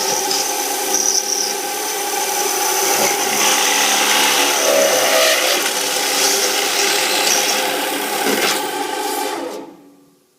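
Automatic multi-spindle drilling machine with four vertical drilling heads running a drilling cycle on a curtain-wall profile: a loud, steady mechanical noise with a high whine, which cuts off about nine and a half seconds in.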